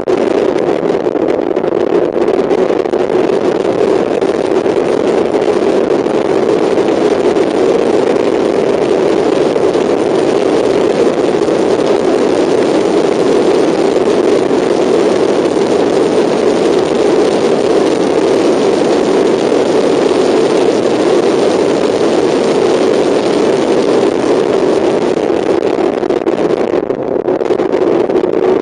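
Mazda MX-5 race car's four-cylinder engine heard from on board, running loud and steady at speed around the track.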